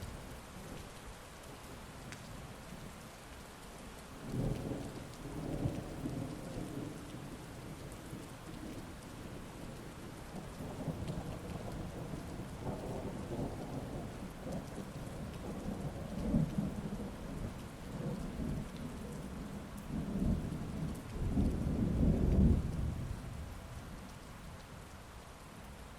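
Heavy rain falling steadily, with thunder rolling in several low, rumbling waves. The loudest roll comes about three quarters of the way through, then dies away.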